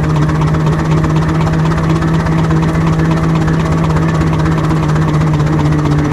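6-inch scale Foden C-Type double-high steam wagon running at speed: a rapid, even engine beat over a steady drone, unchanging throughout.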